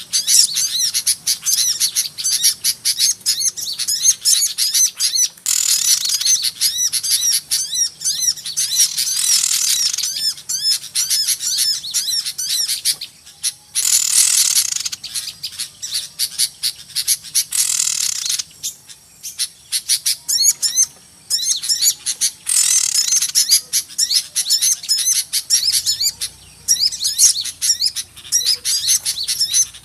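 Many small songbirds chirping and twittering at once in a dense, high-pitched chorus that swells in loud spells of a few seconds with short lulls between: a noisy small-bird lure call used by bird trappers to draw small birds in.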